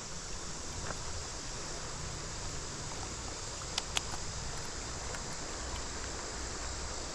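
Steady rush of flowing creek water, with a faint click about four seconds in.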